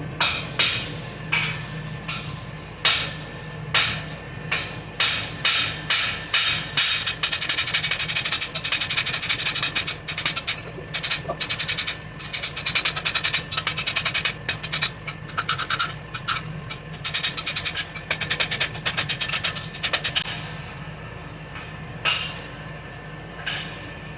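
Hammer blows on a hot steel axe blank on an anvil, drawing out the forging: separate ringing strikes about half a second apart at first, then a long run of rapid, close-set blows, then two last single strikes near the end. A steady low hum runs underneath.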